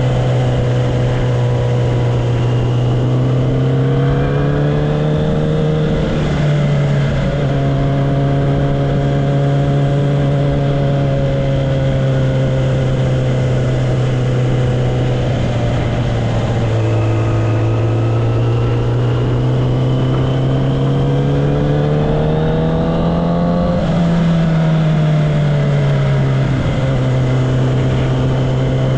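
Kawasaki Ninja ZX-10R's inline-four engine and exhaust running under way at moderate revs. The pitch climbs slowly and drops back at several gear changes.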